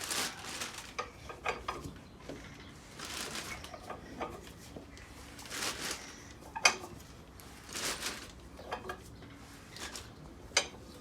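Ford 8BA flathead V8 being turned over slowly: metal clinks and rubbing, with airy strokes of about half a second that come back roughly every two and a half seconds. It turns freely and is not seized.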